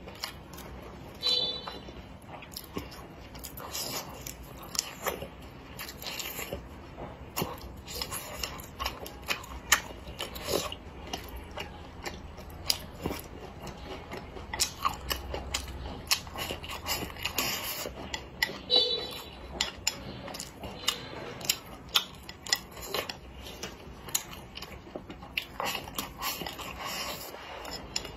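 A person biting and chewing cured pork and rice at close range, with many short mouth clicks and smacks throughout.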